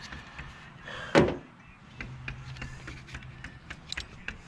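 Handling noise of tools on metal: a loud clunk about a second in, then a run of light clicks and taps as a makeshift bit is worked at the star-head screws holding a small motor on.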